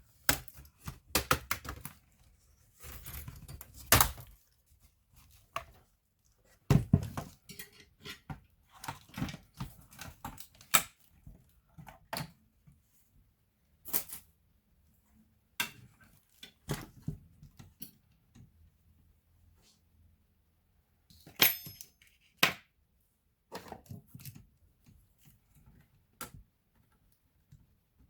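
Irregular clicks, taps and light knocks of small tools, screws and plastic and metal parts handled while a laptop is taken apart, with quiet gaps between them. One sharper click about 21 seconds in has a short metallic ring.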